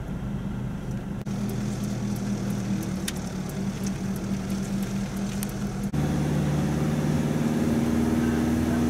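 Vehicle engine running as it drives slowly, heard from inside the cab: a steady low hum that changes abruptly about a second in, then gets louder and shifts in tone about six seconds in.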